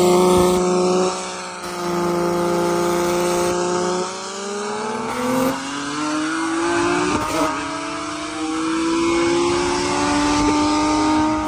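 Car engine pulling hard at high revs: a steady high note with a brief dip about a second in, then the pitch climbs, drops sharply near the middle at a gear change, and climbs again.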